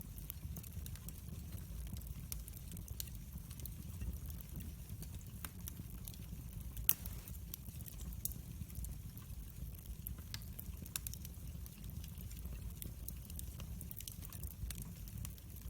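Wood fire crackling in a fireplace: a steady low rumble of flame with many small sharp pops, and one louder crack about seven seconds in.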